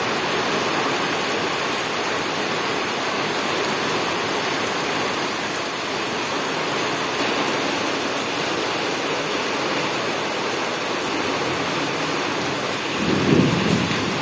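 Steady heavy rain, with a short low rumble of thunder near the end.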